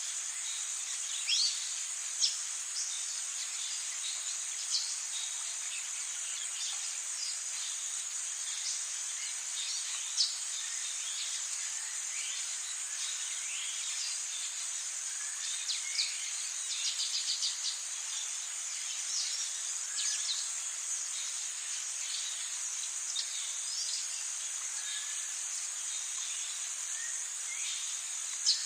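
Rainforest ambience: a steady, high-pitched insect chorus, with scattered short bird chirps over it and a quick run of chirps about two-thirds of the way through.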